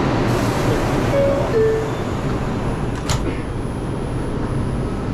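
Loud, steady rumble of a New York City subway train and station. About a second in, two short falling tones sound like a door chime, and a short sharp hiss comes near the middle.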